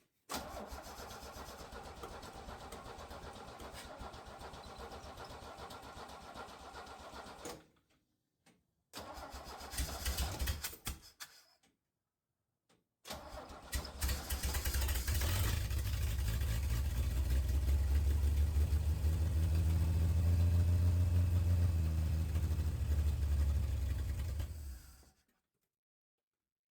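1968 Chevy C20's inline-six being cranked by the starter on its first start with a freshly rebuilt Rochester Monojet carburettor: a long crank of about seven seconds, a short second try, then on a third try about 15 s in it catches and runs steadily for about ten seconds before stopping abruptly.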